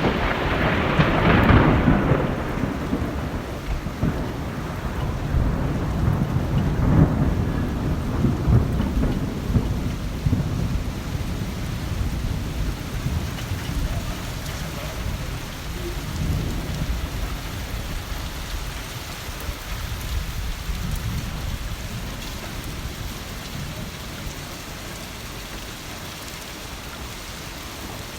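Thunderstorm: a loud thunderclap right at the start that rumbles on for a few seconds, a second roll of thunder about seven seconds in, and steady rain throughout. The rumbling slowly fades, leaving mostly rain near the end.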